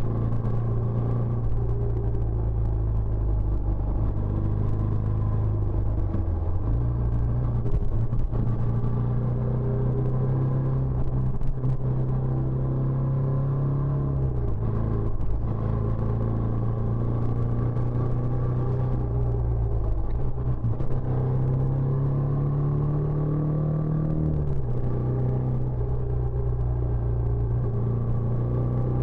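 Benelli Imperiale 400's single-cylinder engine running through its stock exhaust with a steady low note. The pitch dips briefly a few times and rises gently once before dropping.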